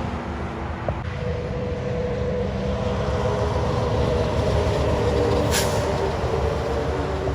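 Heavy truck engine running steadily with a deep rumble as the truck passes on the highway, with a short sharp hiss about five and a half seconds in.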